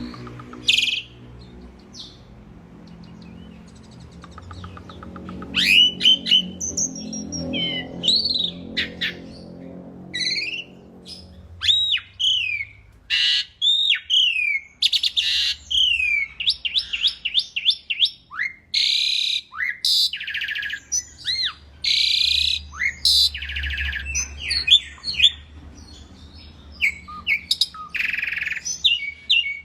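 Asian pied starling (jalak suren) singing a loud, varied song of slurred whistles, fast chattering trills and harsh notes. A low engine-like hum runs underneath for the first dozen seconds, then stops.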